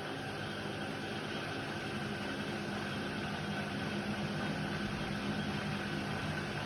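Indesit WIDL 106 washer-dryer running with a steady motor hum and a faint high whine, no starts or stops.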